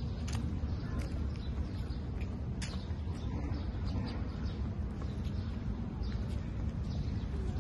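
Outdoor ambience: a steady low rumble with scattered short bird chirps from the trees.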